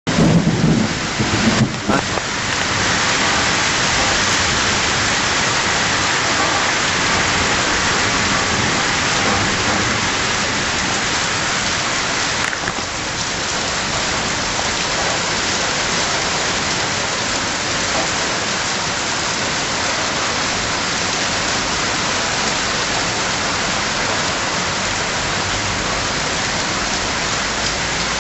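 Steady hiss of heavy rain with wind in a thunderstorm. In the first two seconds it comes in uneven, louder gusts with a low rumble.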